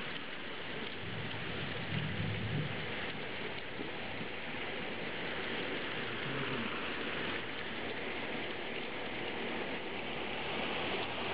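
Torrential thunderstorm rain pouring down onto a flooded street, a steady hiss with a brief low rumble about two seconds in.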